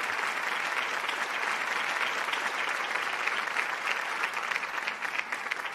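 Applause from a crowd, a dense, steady patter of many hands clapping.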